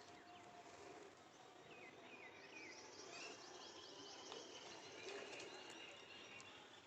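Faint chirping of several small birds, a scatter of short calls that grows busier from about two seconds in.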